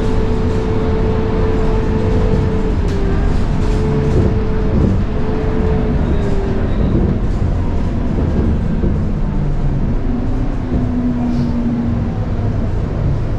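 Scania K230UB bus running under way: a steady diesel drone from its Scania DC9 engine with the high-pitched whine of its ZF Ecomat 6HP504C six-speed automatic gearbox. The whine holds steady, dips briefly about three seconds in, falls away around six to seven seconds in, and a lower whine sets in about ten seconds in.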